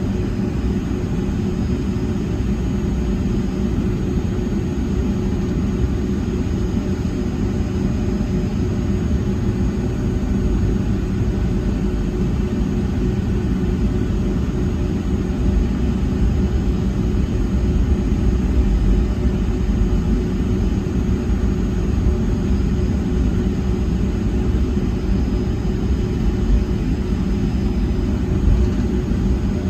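Steady cabin noise inside a Boeing 757-200 airliner, heard from the front of the cabin: a low rumble with a constant hum that holds level throughout, with no engine spool-up.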